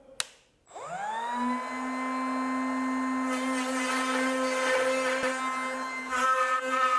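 Palm router switched on with a click, its motor spinning up in a rising whine and then running steadily at full speed. From about three seconds in a rougher hiss joins the whine as the bit cuts into the insert blank.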